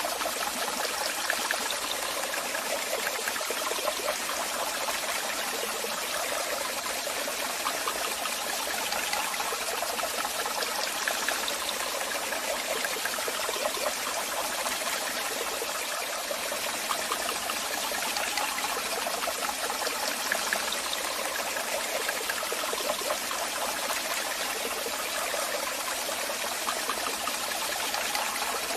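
Waterfall: falling water splashing and rushing steadily, an even hiss with little low rumble.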